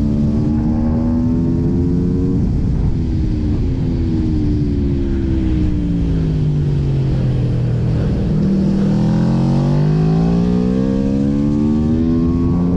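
Aprilia RSV4 Factory's V4 engine revving, its pitch climbing for the first couple of seconds, then dropping and sinking slowly for several seconds before climbing again from about eight seconds in.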